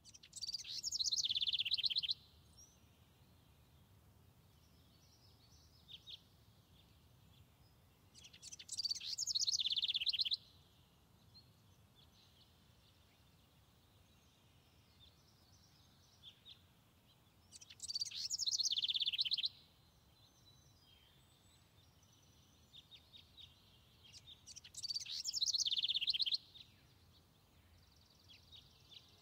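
A songbird singing a fast, high, trilled song of about two seconds, four times at roughly eight-second intervals, with fainter chirps from other birds in between and a low steady background noise.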